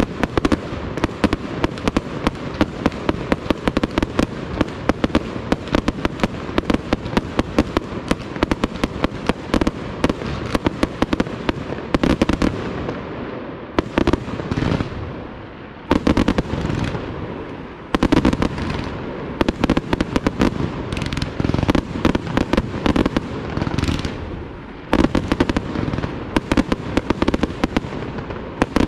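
Fireworks display: a rapid, continuous barrage of aerial shell bursts and crackling reports for the first dozen seconds. It then thins into a more broken run of volleys, with heavier single bangs about halfway through, a few seconds later and again near the end.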